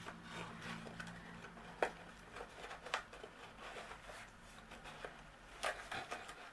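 Faint rubbing and scraping of a cardstock lid being forced down over a cardstock box, with a few sharp taps and clicks. The lid is sticking where the glued-down tabs catch on the box's sides.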